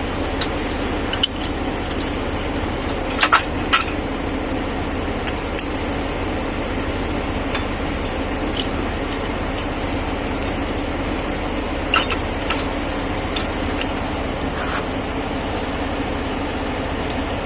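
A vehicle engine idling steadily, with a few sharp metal clicks and clinks of a tow bar being hooked up, about three seconds in and again around twelve seconds.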